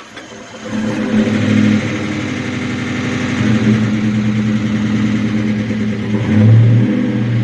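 Freshly rebuilt 2003 Mustang GT 4.6-litre V8 catching from cranking about a second in and then running steadily on its first start after the rebuild. It gets briefly louder about six seconds in.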